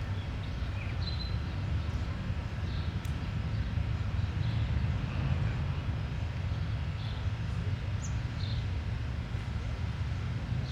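Outdoor ambience: a steady low rumble with a few faint, short bird chirps over it.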